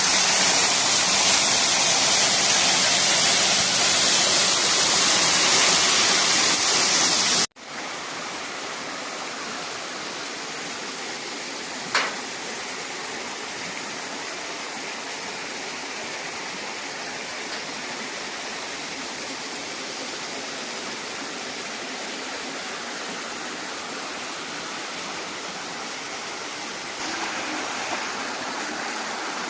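Rushing water of a mountain waterfall on the Rufabgo stream, a steady full roar of falling water. It is loud and close for the first seven seconds, then after an abrupt cut it goes on as a softer, steady rush, with a single sharp click about twelve seconds in.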